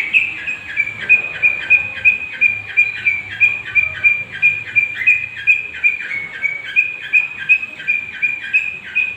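Young long-tailed shrike (cendet) singing: a fast, even series of short falling notes, about three a second, over a steady high note.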